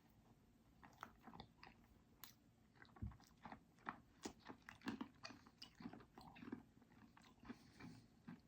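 Faint chewing of a mouthful of McFlurry ice cream with crushed Smarties: small, irregular crunches and clicks.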